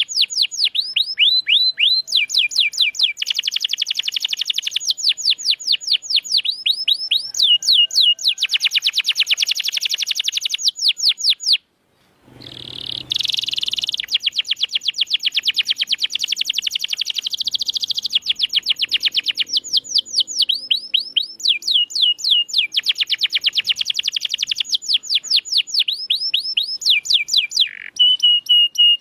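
Domestic canary singing loud, fast rolls of repeated down-sweeping notes, the phrases switching every second or two. The song cuts out briefly about twelve seconds in, then carries on.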